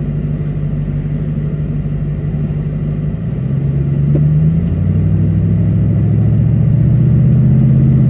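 Vehicle engine heard from inside the cab, running steadily while stopped in traffic. About three seconds in it pulls away and gets louder, its pitch rising and then dropping back about halfway through.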